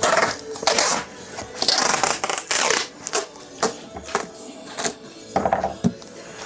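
Parcels being packed by hand: several short rustling, scraping swishes of packaging material, over faint background music.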